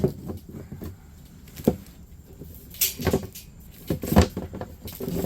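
Hands handling fittings and parts: a run of separate knocks and clunks, the loudest a little after four seconds in, with a brief rustle near the middle.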